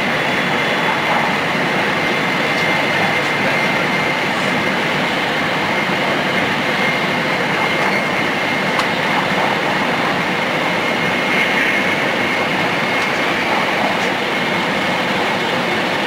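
Shinkansen train running at speed, heard from on board: a steady rushing ride noise with a thin, steady high whine above it.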